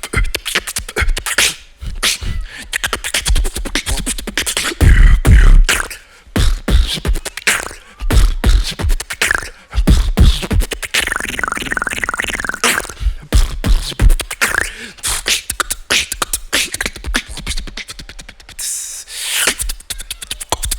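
Solo beatboxing: a fast run of mouth clicks, snares and deep bass kicks, with a wavering pitched vocal line about eleven seconds in and a hissy sweep near the end.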